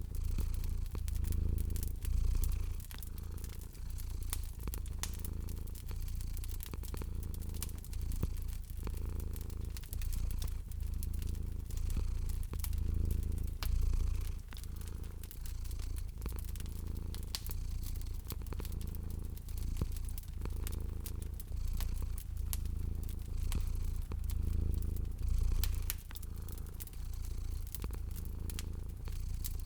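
Cat purring, a low rumble that swells and fades with each breath every second or two, over a wood fire crackling with scattered sharp pops.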